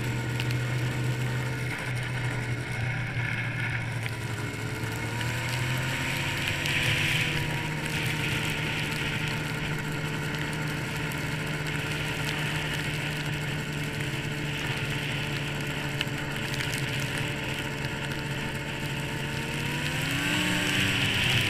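Yamaha SRX 700 snowmobile's two-stroke triple running at a steady speed, with the engine note rising slightly about five seconds in and again near the end, over a hiss of wind and snow.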